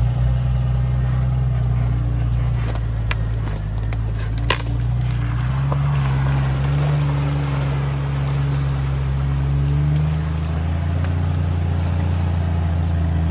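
An off-road vehicle's engine running steadily at low revs. Its pitch rises a little about five and a half seconds in and eases back around ten seconds. A few sharp clicks or knocks come in the first half.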